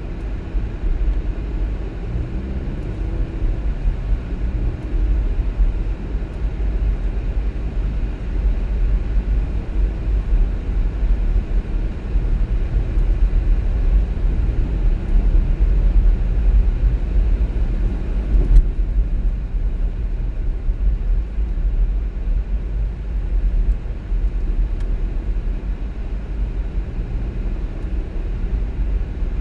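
Steady low road and engine rumble of a car driving, with a single brief knock about two-thirds of the way through.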